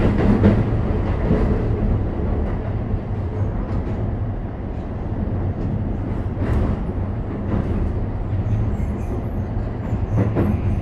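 Toei 5500 series commuter train running, heard from inside the passenger car: a steady low rumble of wheels on rail, with a few light clacks.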